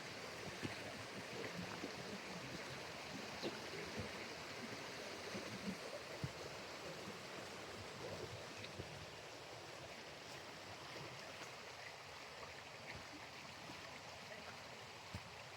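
Faint, steady rush of a small stream flowing, with a few light ticks and knocks scattered through it, mostly in the first half.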